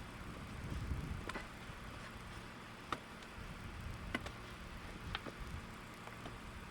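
A handful of short, light clicks or taps, roughly a second apart, over a low steady rumble.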